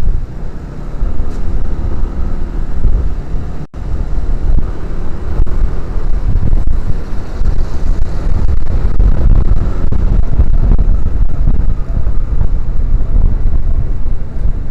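Wind buffeting the microphone of a camera on a moving motorcycle, with the motorcycle's engine running underneath. The sound cuts out for an instant about four seconds in.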